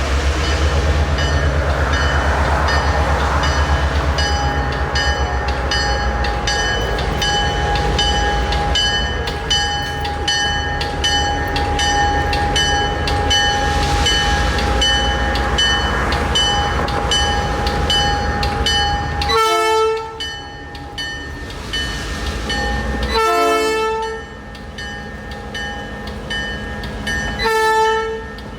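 A train rolls along with a steady rumble and rhythmic clicking of wheels over the rail joints. Near the end a locomotive horn sounds three separate blasts, the last one shorter.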